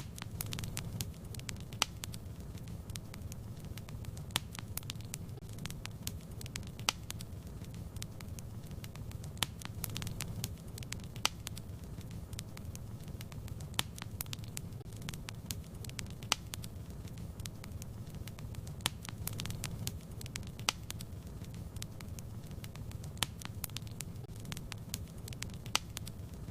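Fireplace fire crackling: sharp pops and snaps at irregular intervals over a steady low rumble of the flames.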